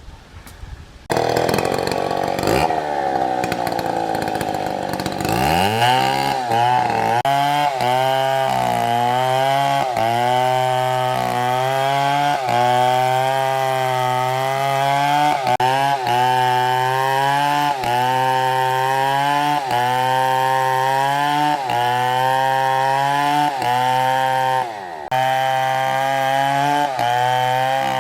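Stihl MS720 chainsaw running. It comes in suddenly about a second in at high revs, then from about five seconds in it is cutting into wood: the engine note sags and recovers every second or two under the load, with a brief drop near the end.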